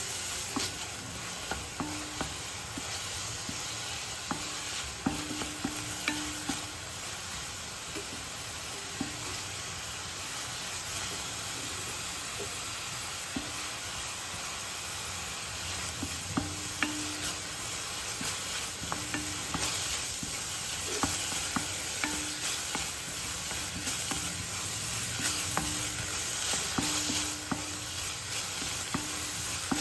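Chopped onions and green chillies sizzling in oil in a stainless steel pan while a spatula stirs and scrapes them around the pan, with scattered short clicks and scrapes over the steady frying hiss.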